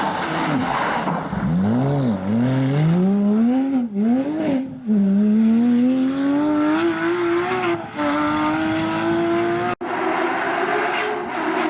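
Porsche competition car engine at high revs: the pitch dips and rises in several quick swoops over the first few seconds as the car brakes and downshifts, then climbs steadily under hard acceleration, with one upshift about eight seconds in. Just before ten seconds the sound cuts off abruptly and switches to another engine running at a steady high pitch.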